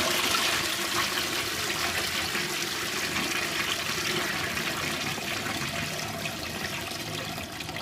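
Armitage Shanks toilet flushing: a steady rush of water through the bowl, loudest at first and slowly easing off as the flush goes on.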